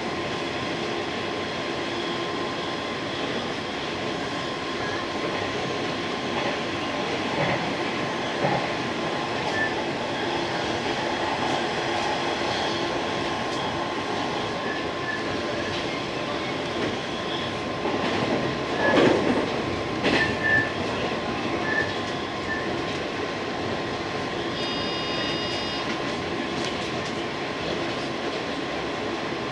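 JR 185 series electric train running, heard from inside the driver's cab: a steady rolling rumble with wheel clatter over the rails. About two-thirds through, a louder burst of clatter and wheel squeal, and near the end a brief high-pitched tone.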